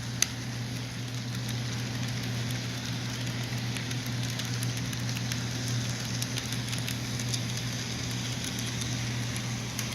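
HO scale model train running on its track: a steady low motor hum with a light hiss and scattered faint clicks of the wheels on the rails and switch track, one sharper click just after the start.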